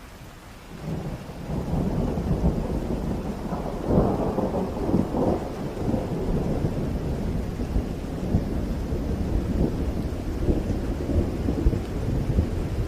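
Heavy rain falling steadily, with a long rolling rumble of thunder that builds about a second in, is loudest around four seconds in, and keeps rumbling under the rain.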